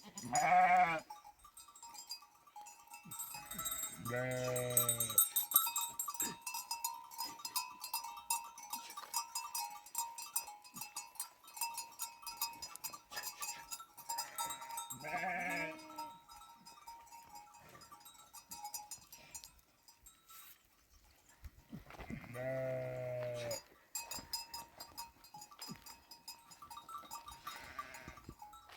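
Sheep bleating about four times, one long low call about a third of the way in and another long one near three-quarters, with animal bells clinking and ringing steadily between the calls.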